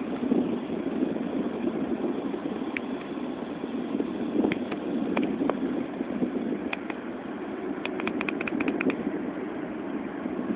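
BMW E90 M3's V8 with an RPI off-road exhaust section and the stock muffler, heard from inside the cabin while driving: a steady, even engine and exhaust drone mixed with road noise. A quick run of light clicks comes about eight seconds in.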